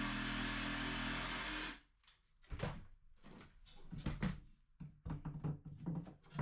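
A power tool runs steadily and cuts off abruptly about a second and a half in, most likely trimming a tongue-and-groove loft board. It is followed by a string of irregular knocks and clatters of wood being handled.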